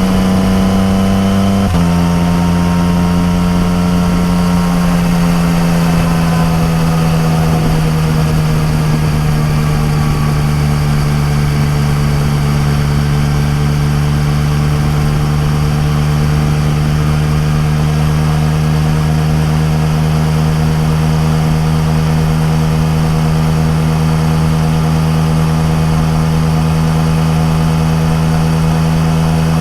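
Yamaha MT-09 Tracer's inline three-cylinder engine running through an Akrapovic exhaust while riding at speed. Its note steps down suddenly about two seconds in, eases slowly lower over the next several seconds, then holds a steady cruising drone.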